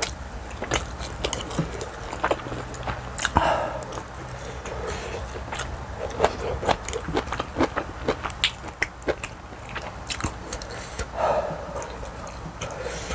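Close-miked mukbang eating sounds: a person chewing spicy tteokbokki rice cakes and glass noodles, with many sharp wet mouth clicks and smacks, and two short louder mouth sounds about three seconds in and near the end.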